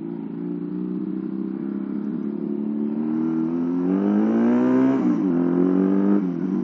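Home-built two-cylinder engine of a Honda Astrea Prima moped, made by joining a Honda Revo engine onto the original, pulling under acceleration. Its pitch climbs steadily, drops sharply about five seconds in, holds briefly, then drops again near the end.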